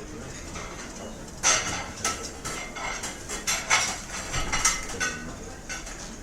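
Restaurant ambience: cutlery and dishes clinking and clattering over steady room noise. A busy run of clatters starts about a second and a half in and eases off near the end.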